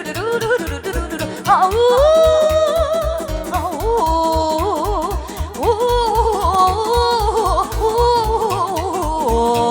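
Live Romanian folk party music, an instrumental break: an ornamented lead melody with wide vibrato over a fast, steady beat in the bass.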